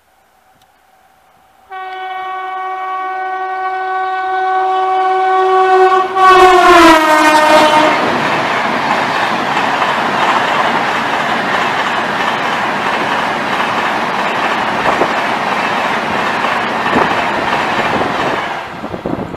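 Rajdhani Express passenger train with an electric locomotive at its head, passing at speed. The locomotive sounds one long horn blast starting about two seconds in, and the horn's pitch drops as the locomotive goes by. The coaches then rush past with a steady rail noise that fades near the end.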